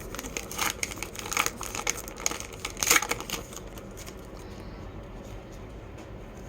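Crinkling and rustling of a baseball card pack wrapper being handled and torn open, a run of crackles over the first three seconds or so, loudest near the end of that run, then quieter.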